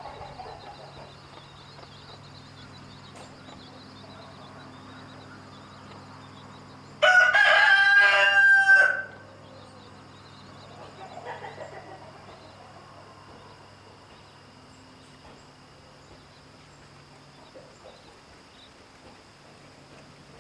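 Rooster crowing once, a loud cock-a-doodle-doo about two seconds long, starting about seven seconds in.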